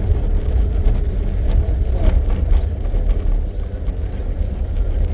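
Safari jeep driving along a forest track: a steady, heavy low rumble of engine and road noise.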